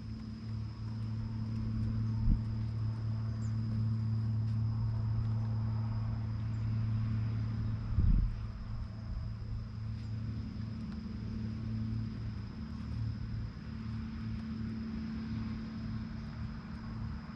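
A steady low mechanical hum under a constant high insect tone, with two short knocks, about two and eight seconds in.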